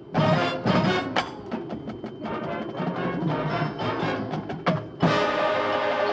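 Marching band playing its competition show: brass and percussion with sharp accented hits near the start, then the full band comes in loud about five seconds in.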